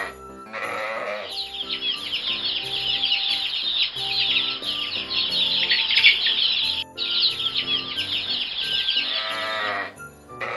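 A sheep bleats once, then a crowd of domestic chicks peeps without pause, many high chirps overlapping, with a brief break about two-thirds of the way through; a sheep bleats again near the end. Background music plays underneath.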